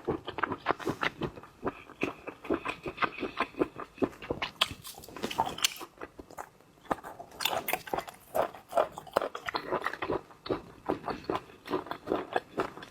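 A person chewing and eating close to the microphone, a dense run of quick, irregular mouth clicks and chewing sounds, with a short lull about six seconds in.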